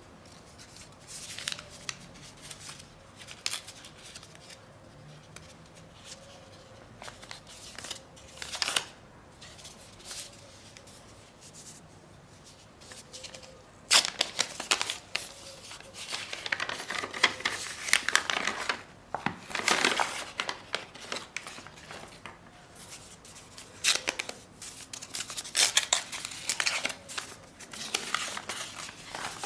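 Hand-handling sounds from working with gym chalk and cornstarch paste: scattered crinkling, tearing and scraping. These are sparse at first and grow busier and louder about halfway through.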